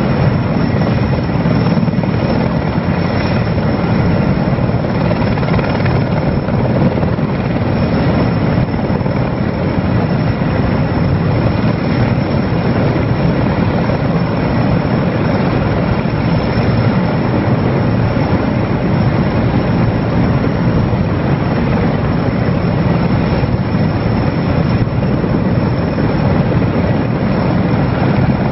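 Erickson Air-Crane heavy-lift helicopter with its rotor and turbine engines running in a steady, loud drone. It is working a lift.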